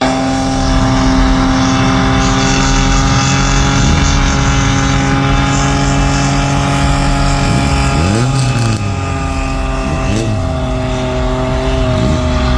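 Truck engine idling with a steady drone, given three quick revs that rise and fall back about two thirds of the way through, again a couple of seconds later, and near the end.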